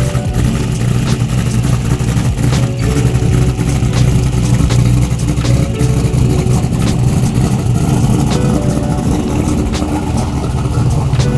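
Dodge Challenger drag car's engine running at a loud, steady idle, a deep tone with irregular sharp cracks over it.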